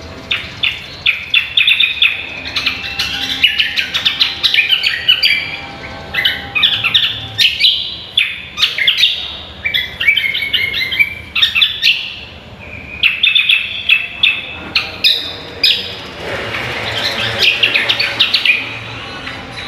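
Cucak kombo (greater green leafbird) singing a fast, varied song of sharp chirps and trills, with a couple of short pauses.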